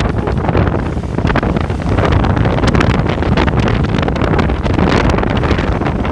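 Wind buffeting the microphone during a ride, a loud, steady rumble with rapid gusty crackles, with a vehicle running underneath.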